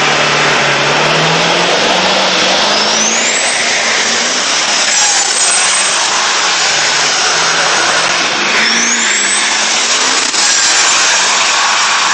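Ford F-350's 7.3 L Power Stroke turbodiesel V8 under full-throttle acceleration, its engine note climbing through the gears. A high turbo whistle sweeps upward twice, about three and eight and a half seconds in.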